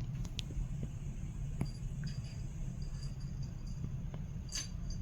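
A few faint clicks and light tinkling from a cat toy as a kitten chases and plays with it, over a low steady hum.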